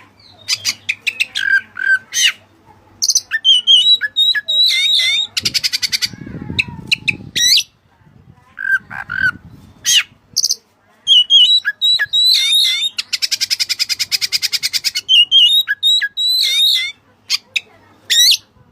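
Oriental magpie-robin (kacer) singing a loud, varied song of whistles and squawky notes. Twice it runs into a long, fast rattling trill.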